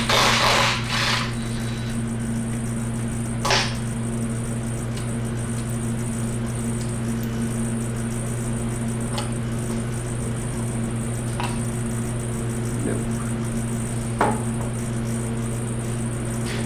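Metal engine parts and hand tools being handled during a V8 teardown: a short clatter at the start, another about three and a half seconds in, then a few faint clicks, over a steady hum.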